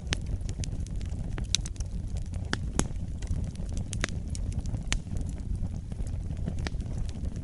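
Fire in a fireplace crackling: sharp, irregular pops and snaps over a steady low rumble of the flames.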